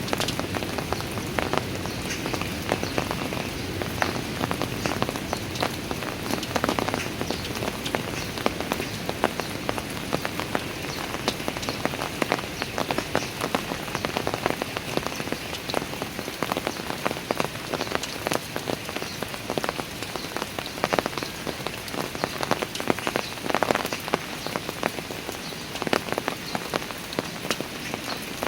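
Steady rain falling on park stairs and hard ground, a continuous hiss with many close individual drops splashing and pattering throughout.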